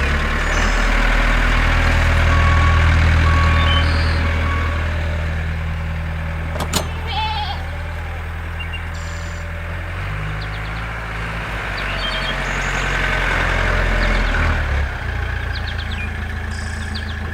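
Tractor engine running with a steady low chug, its pitch shifting about ten seconds in and again near fifteen seconds.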